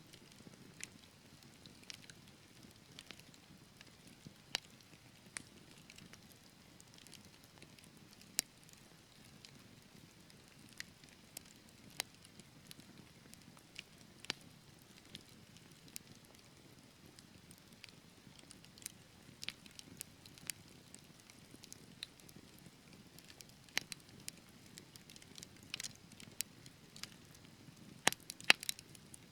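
Wood fire burning in a fireplace: a soft steady hiss with irregular sharp crackles and pops from the burning logs, a quick cluster of louder pops near the end.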